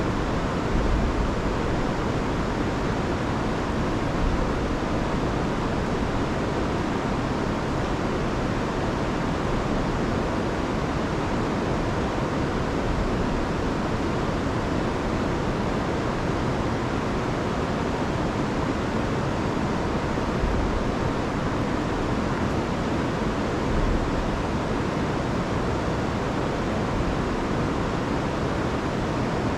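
River water rushing over waterfalls, a steady unbroken noise. The river is running high after a week of heavy rain.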